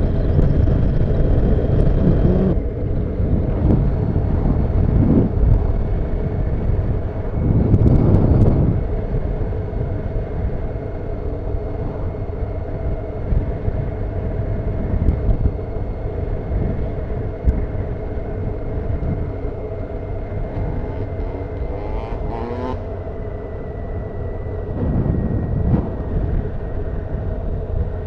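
Honda CBF motorcycle engine running steadily under way, over a constant low rumble of wind and road noise. The noise swells louder twice, and a short rise in pitch comes a little past two-thirds of the way through.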